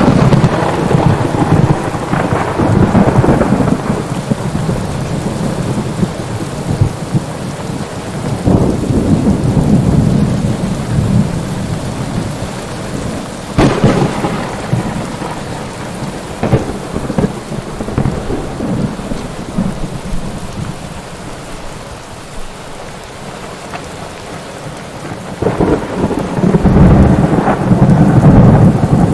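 Thunderstorm: steady rain with repeated rolls of thunder, a sharp crack about fourteen seconds in, and a long loud rumble building near the end.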